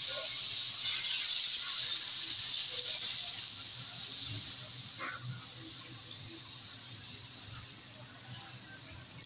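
Onions, garlic and chilies sizzling in a hot wok as coconut milk is poured in; the sizzle fades steadily as the milk covers the pan and cools it.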